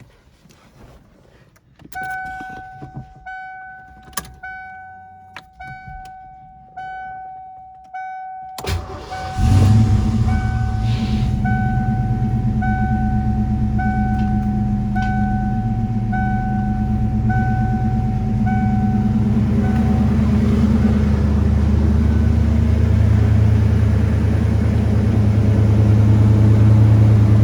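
A 1987 Ford Mustang LX starting cold: a dashboard warning chime dings about once a second, the starter cranks briefly about nine seconds in, and the engine catches and settles into a steady idle that grows slightly louder toward the end. The chime keeps going over the idle until about twenty seconds in, and a few clicks come before it starts.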